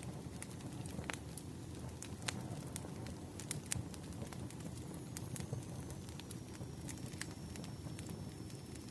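Wood fire burning: irregular sharp crackles and pops of the logs over a steady low rumble of the flames. A faint thin high whine comes in about halfway.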